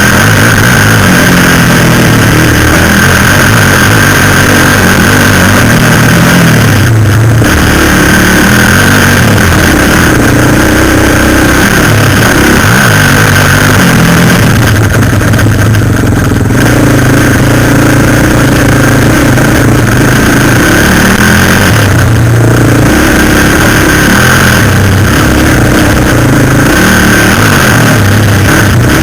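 Suzuki LTZ400 quad bike's single-cylinder four-stroke engine running hard and loud, picked up close from a camera mounted on the bike, its note rising and falling with the throttle and easing off briefly several times. A steady high whine runs under it.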